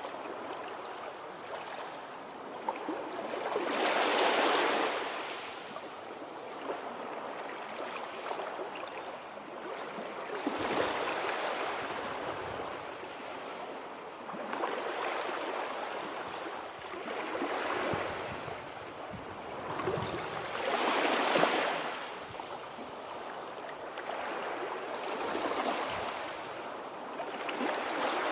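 Sea waves breaking and washing on a shore, a steady hiss of surf that swells and ebbs every few seconds, with the strongest breakers about four seconds in and again about two-thirds of the way through.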